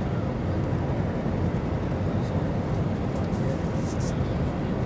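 Steady low rumble of jet engines and rushing air heard inside an airliner cabin.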